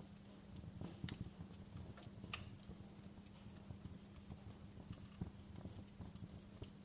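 Wood fire crackling in a fireplace: irregular pops and snaps over a low, steady rumble, with the sharpest pops about a second in and just past two seconds.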